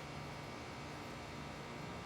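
Faint steady background hiss with a low hum underneath, no distinct events.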